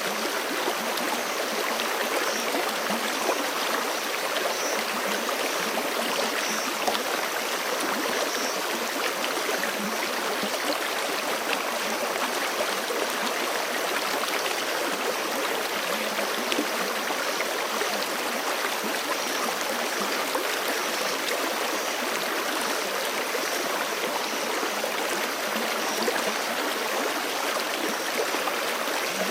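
Forest creek flowing steadily, a continuous rush of running water with no pauses.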